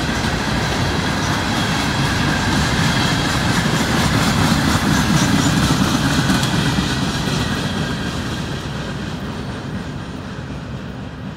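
CSX freight train of open-top hopper cars rolling past, steel wheels running on the rails. It is loudest about halfway through, then fades as the last cars pass and move away.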